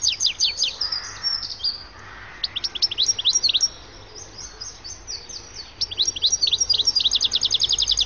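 European goldfinch singing: three bursts of rapid, high twittering notes, each note dropping quickly in pitch.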